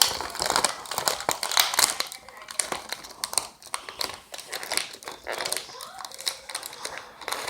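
Cookie packaging crinkling and rustling in quick, irregular crackles as it is handled to get a chocolate chip cookie out.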